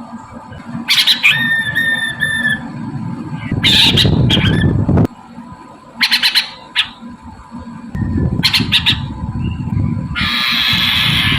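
Poksay Mandarin, a laughingthrush, giving loud, harsh squawking calls in short bursts every second or two: a lure recording of its call. About a second in, one call holds a few steady pitched notes. A constant low rumble of noise runs underneath.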